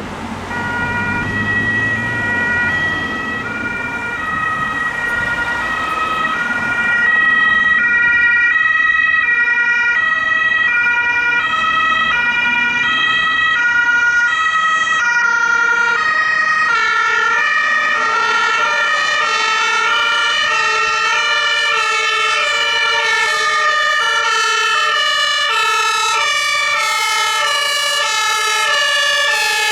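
German two-tone emergency-vehicle sirens (Martinshorn) sounding their alternating high-low call. A second siren joins about halfway through, out of step with the first. A vehicle engine rumbles low in the first few seconds.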